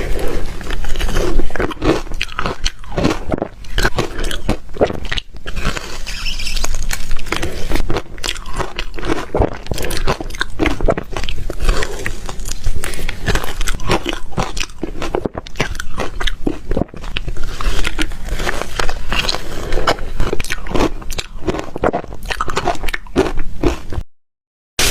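Ice being bitten and crunched between the teeth, a dense run of sharp cracks and crunches, close and loud. It cuts off abruptly to silence just before the end.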